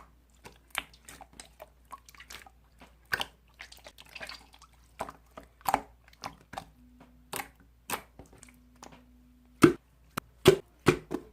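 Slime being squeezed and worked by hand, giving irregular wet clicks and pops, about two or three a second, with the loudest pops in the last two seconds.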